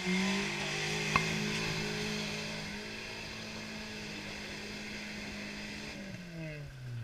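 Suzuki Jimny's engine held flat out at steady high revs, with a single sharp knock about a second in; the revs drop near the end.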